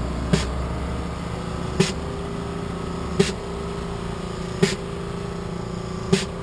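Motorcycle engine idling steadily, with a sharp click repeating about every one and a half seconds.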